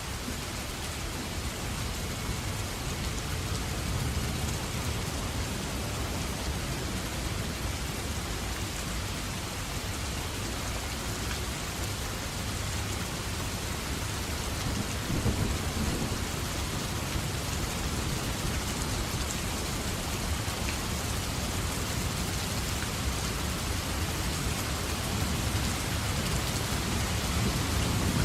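Steady heavy rain in a thunderstorm, with thunder rumbling low underneath and swelling to a louder roll about halfway through.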